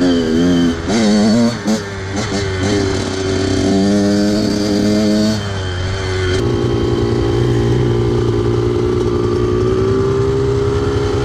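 Off-road vehicle engine revving up and down in quick blips. About six seconds in it settles into a steady run, its pitch creeping slowly upward.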